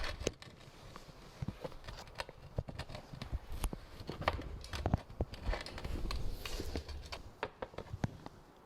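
Irregular light clicks and taps with a few short stretches of rubbing or scraping, the sound of hand work with tools and pottery on a workbench.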